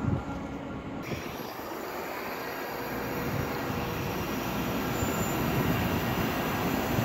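Belgian SNCB electric multiple unit approaching along the station track, its rail noise growing steadily louder. A brief handling knock right at the start.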